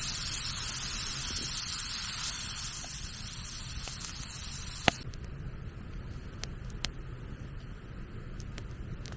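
Wood campfire crackling, with sharp isolated pops, the loudest about five seconds in, over a steady hiss that drops away around the same point.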